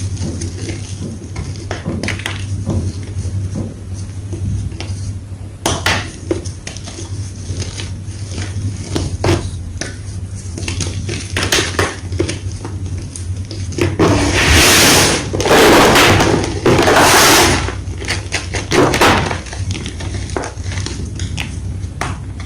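White gym chalk crunching and crumbling, with many sharp, irregular snaps and crackles. Louder, longer crunches come in a run about two-thirds of the way through.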